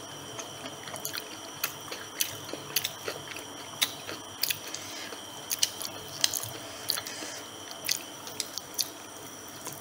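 Crispy fried chicken being bitten and chewed close to the microphone: irregular sharp crunches and crackles of the fried coating, a few each second, with chewing between them.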